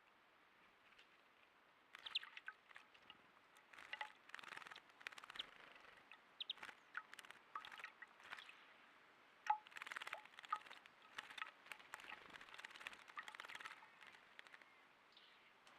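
A bird bathing in shallow water: faint, irregular flurries of small splashes and flicks. They start about two seconds in and pause briefly near the end.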